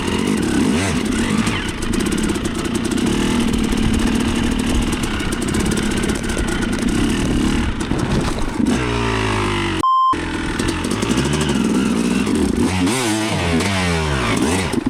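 Dirt bike engine running hard, revving up and down several times. A short censor beep cuts in about ten seconds in.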